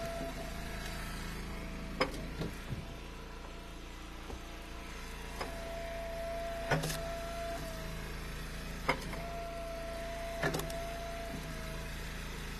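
Eastonmade hydraulic log splitter running steadily, with a steady whine that comes in for a second or two at a time as the ram is worked. Sharp knocks and cracks of firewood sound about every one to two seconds.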